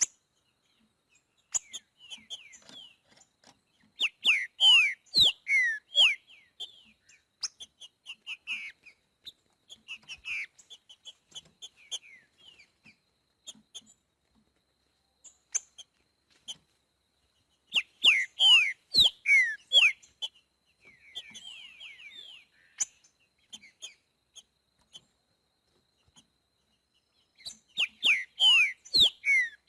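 Green-winged saltator (trinca-ferro) singing in the 'boiadeiro' song style: three loud phrases of clear, downward-sliding whistled notes, spaced some ten seconds apart, with softer scattered notes in between.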